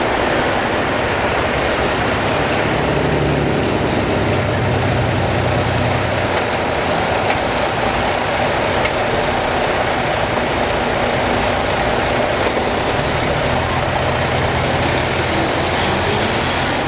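Heavy diesel trucks driving past in a slow procession, their engines running steadily, with low engine notes that change as different trucks pass.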